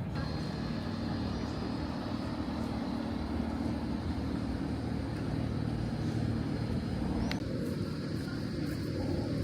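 Steady low rumble of motor traffic with an engine hum running throughout.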